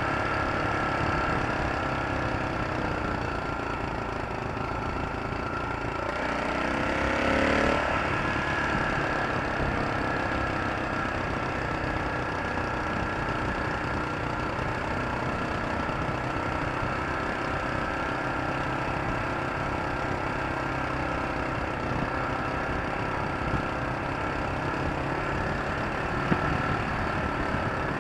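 An engine running steadily, speeding up with a rising pitch about six to eight seconds in before settling back. Two short sharp clicks come near the end.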